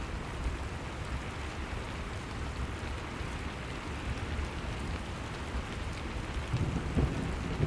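Steady rain falling, a continuous even hiss, with a louder low rumble coming in near the end.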